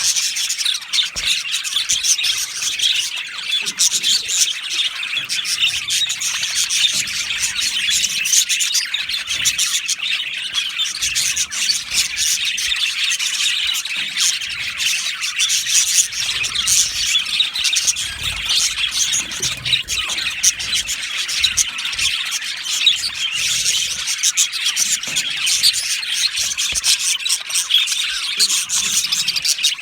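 A flock of budgerigars chirping and chattering together, many birds' short calls and squawks overlapping in a dense, continuous warble.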